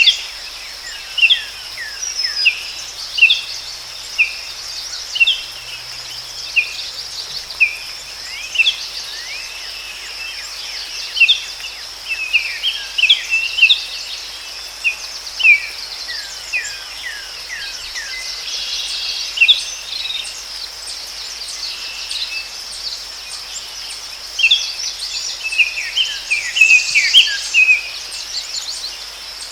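Forest ambience: many short, falling bird chirps every second or so, over a steady high-pitched insect drone. The chirping gets busier in the middle and near the end.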